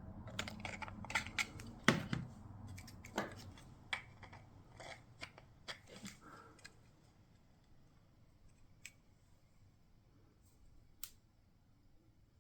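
Irregular sharp clicks and snips of 3D-printed plastic parts being handled and worked, dense for the first seven seconds and then only a few scattered clicks.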